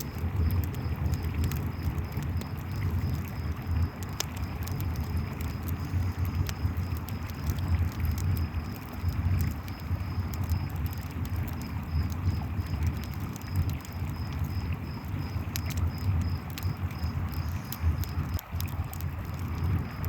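Campfire crackling with scattered sharp pops over the steady low rush of a flowing river, while crickets chirp in a fast, even, high pulse throughout.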